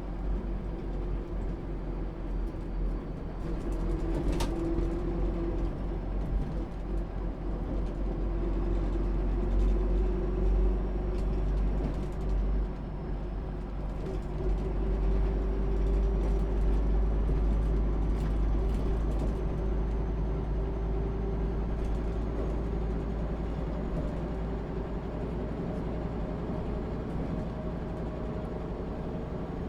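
MAN SÜ 272 NCT diesel bus running under way; the engine note climbs steadily for several seconds past the middle, then eases off. A faint high whine rises alongside it.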